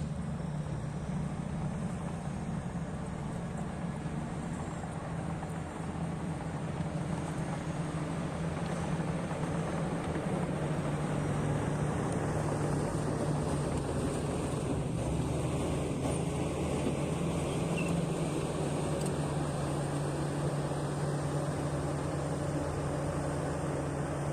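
Heavy earthmoving machine's diesel engine running steadily, its level rising a little about halfway through.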